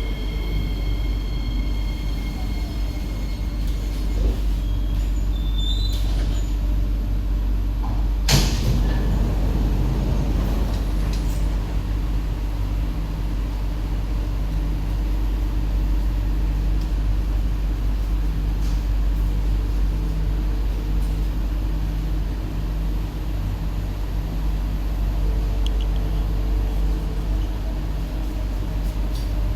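Steady low hum of a stationary SMRT C151B train's onboard equipment during a station stop, with a single sharp knock about eight seconds in followed by a short hiss, and a faint pulsing tone later on.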